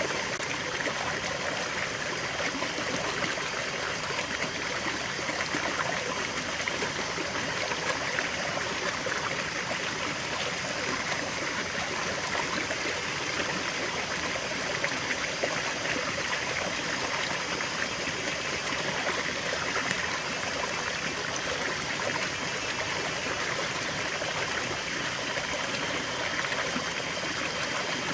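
Small stream flowing over stones, a steady trickling, babbling rush of water.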